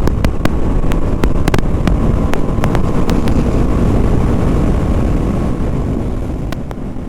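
BMW G 310 RR's single-cylinder engine running while riding, buried under heavy wind rush on the helmet microphone, with several sharp clicks. The sound fades down in the last second or so.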